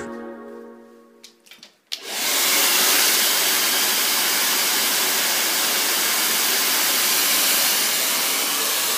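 Handheld hair dryer starting about two seconds in and blowing steadily, a loud even rush of air, after a few short clicks. Background music fades out at the start.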